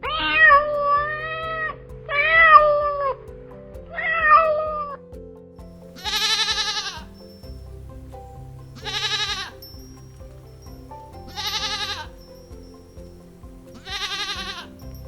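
A domestic cat meowing three times, each meow a drawn-out call that bends in pitch, followed by four shorter, brighter, wavering animal calls about two and a half seconds apart. Steady background music runs underneath.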